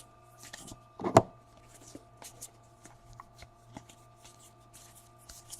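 Baseball trading cards being flipped through by hand: a run of short papery swishes as cards slide off the stack, with one louder knock about a second in. A faint steady hum runs underneath.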